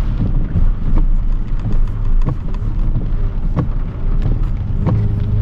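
Inside a moving vehicle's cabin: a steady low rumble of engine and road, with irregular sharp taps and knocks every half second to a second.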